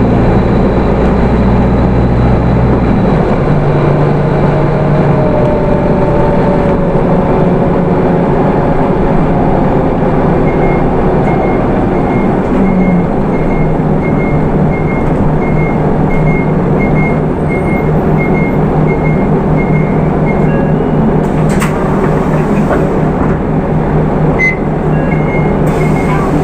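Hino Rainbow II bus with its Isuzu 4HK1 four-cylinder diesel and automatic gearbox, heard from inside while driving: the engine's low hum changes pitch about three seconds in and a faint rising whine follows. From about ten seconds in, a high beep repeats a little over once a second for about ten seconds, and a sharp click comes near the end.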